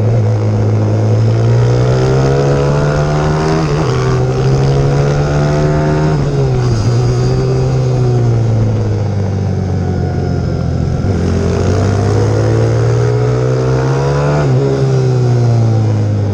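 A pit bike's YX150 single-cylinder four-stroke engine running hard. Its revs climb steadily and then drop off sharply, about four times over.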